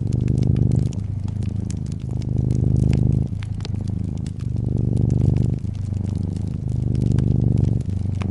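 Brown tabby cat purring, the low rumble swelling and easing in turns about once a second as it breathes in and out, over a fireplace's soft crackling with small scattered pops.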